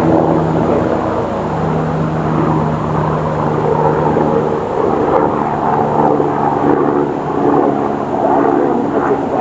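Many honeybees buzzing in a steady drone around an opened hive, the colony agitated by the frames being pulled.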